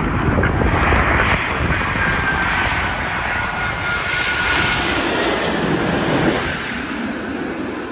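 Airbus A380's four Rolls-Royce Trent 900 jet engines as the airliner comes in to land: a steady jet rumble with a faint high whine sliding slightly down in pitch, easing off near the end.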